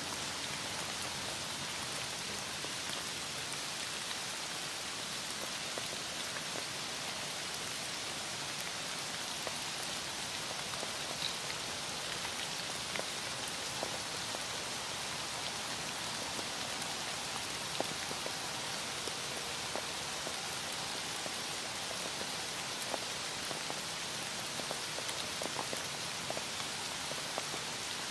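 Heavy rain falling steadily: a dense, even hiss of rain with many small drop ticks scattered through it.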